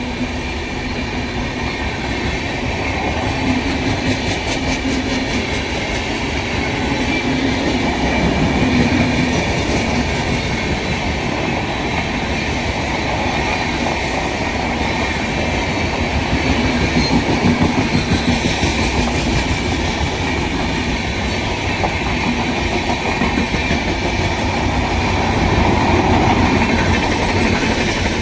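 A train running past, its wheels clattering steadily over the rail joints, swelling in loudness a few times as it goes by.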